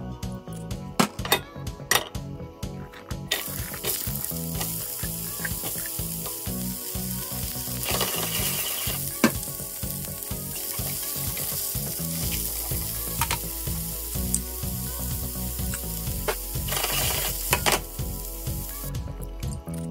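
Carrot sticks frying in hot oil in a nonstick pan, a steady sizzle setting in about three seconds in, with a few sharp clicks of a utensil against the pan.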